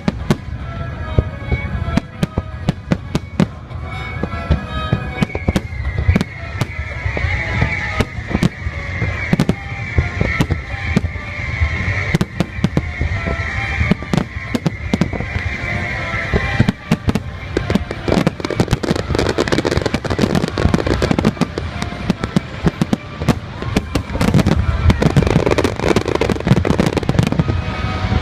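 Fireworks display: a rapid, irregular run of sharp bangs from aerial shells bursting, growing denser with crackle in the second half, over accompanying background music.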